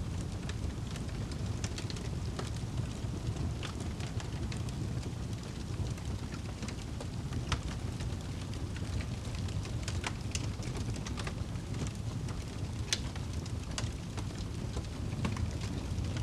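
Wood campfire crackling and popping, with irregular sharp snaps over a steady low rumble.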